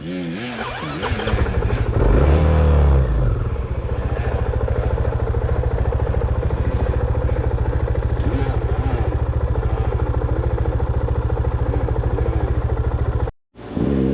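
Dirt bike engine revving up and down hard for the first few seconds, then running at a steady, even throttle. The sound cuts out for a moment near the end.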